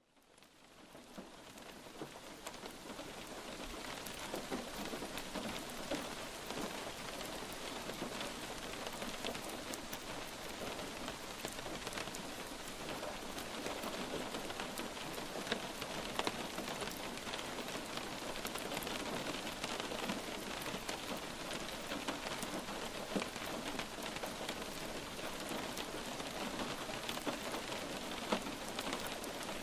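Light rain falling steadily: a dense patter of drops, with now and then a single louder drop. It fades in over the first few seconds.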